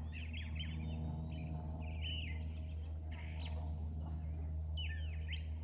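Birds chirping, with short repeated calls, over a steady low rumble. A thin high buzz sounds for about two seconds in the middle.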